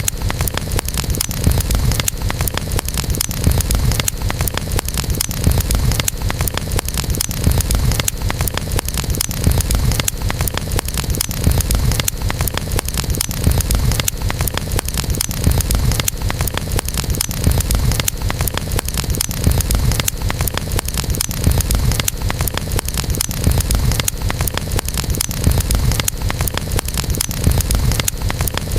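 Campfire burning: many small crackles and pops over a steady low rumble and hiss.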